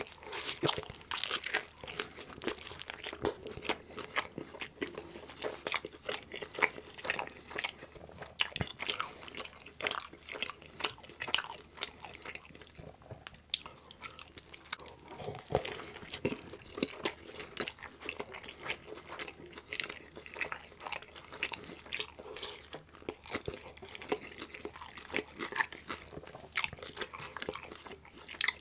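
Close-miked chewing of pizza: crunching crust and wet, sticky chewing sounds, with many irregular crackles and smacks throughout.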